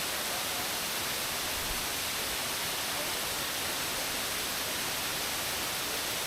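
Waterfall cascading: a steady rushing of falling water, unchanging throughout.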